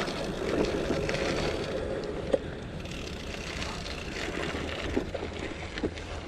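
Specialized Diverge gravel bike on cross tires rolling over a gravel trail: steady tyre noise with a low rumble, and a sharp knock about two seconds in.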